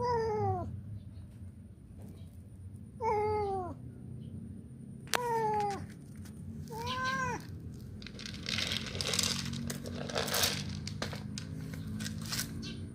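A cat meows four times, each a short call that falls in pitch, a second or two apart. This is followed by several seconds of scratchy noise with clicks.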